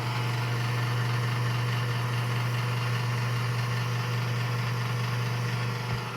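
Toaster oven running at full heat with its convection fan on: a steady low electrical hum under the whir of the fan, easing off slightly near the end.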